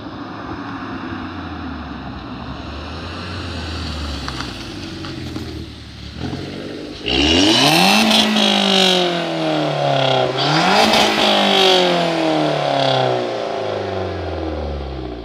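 Audi A3 1.4 TFSI turbocharged four-cylinder with a decat downpipe and aftermarket exhaust, running as it approaches, then accelerating hard past. About seven seconds in the revs jump and climb sharply, dip, and climb again, then the engine sound falls away as the car drives off.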